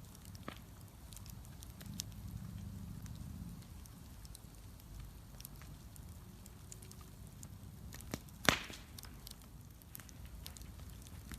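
Wood bonfire crackling, with scattered small pops and one much louder pop about eight seconds in, over a steady low rumble.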